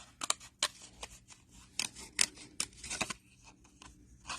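Small craft snippers fussy cutting paper: a string of quick, irregular snips, thinning out near the end.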